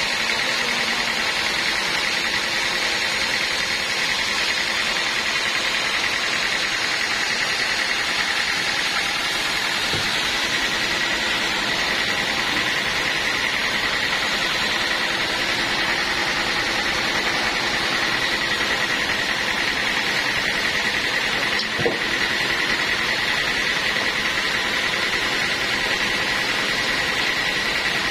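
Band sawmill running: a steady rushing noise with a high whine that grows stronger about ten seconds in, and one short knock near the end.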